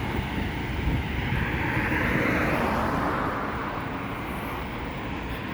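Street traffic noise: a passing vehicle swells up about two seconds in and then fades, over a steady low rumble of wind on the microphone.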